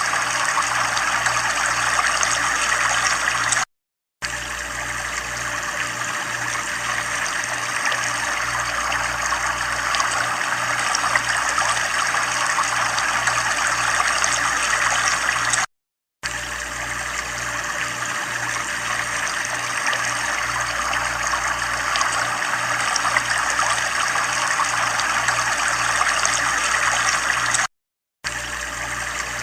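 Continuous running, trickling water, with a steady even rush. It cuts out completely three times for about half a second each, about four seconds in, midway and near the end.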